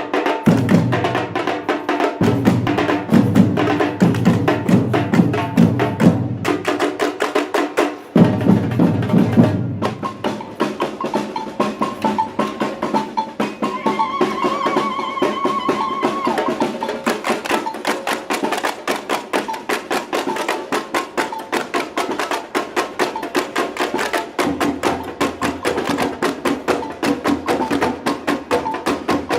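Batucada (Brazilian samba percussion group) playing a fast, dense rhythm of drums and sharp wood-block-like strokes. The deep bass drums drop out about a third of the way in and come back, softer, near the end.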